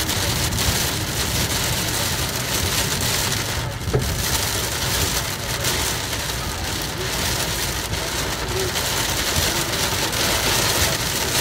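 Heavy thunderstorm downpour: a dense, steady hiss of rain, briefly easing about four seconds in.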